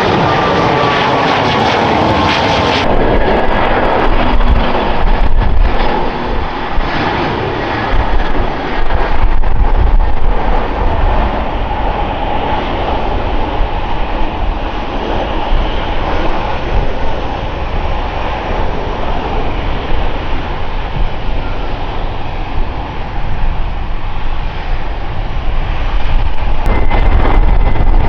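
Airliner engines, loud and close. A whine falls in pitch over the first few seconds, the sound changes abruptly about three seconds in, and then comes a steady rushing noise with heavy low rumble. A faint high whine returns near the end.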